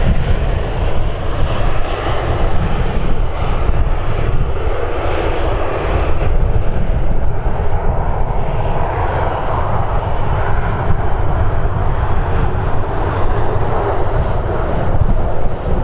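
Aircraft engines running loud and steady as a plane passes, with gusty wind rumbling on the microphone.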